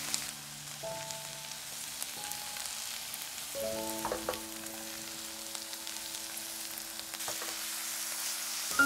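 Food sizzling as it fries in oil in a pan, with a few light clicks of a utensil. Soft background music with held notes plays throughout.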